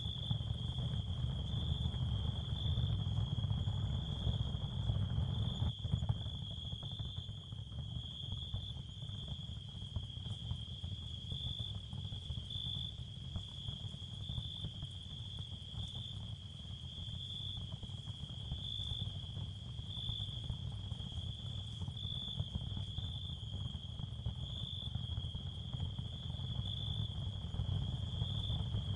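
Ambient soundscape of crickets chirping in a steady, pulsing high band over a low rumble. A single click about six seconds in, after which it is a little quieter.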